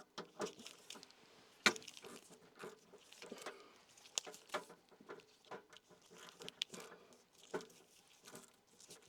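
Irregular small clicks, taps and rattles of hand tools and parts being handled and rummaged through, with one sharper knock about two seconds in.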